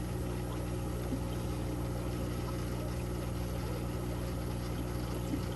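Aquarium pump humming steadily, a low electrical drone with some water-noise hiss.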